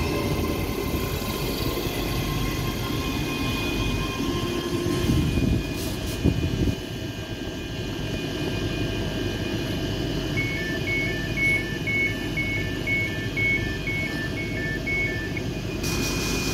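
ScotRail Class 385 electric multiple unit standing at the platform with a steady low hum and rumble from its equipment, with a couple of knocks about six seconds in. About ten seconds in, its door-closing alarm sounds: short beeps alternating between a higher and a lower note about twice a second for some five seconds, the signal that the doors are closing before departure.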